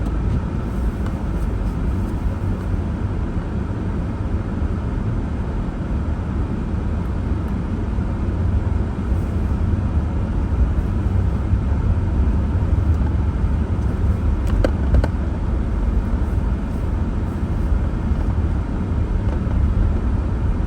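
Snowstorm wind buffeting the microphone: a steady, deep rumbling noise that swells a little about halfway through.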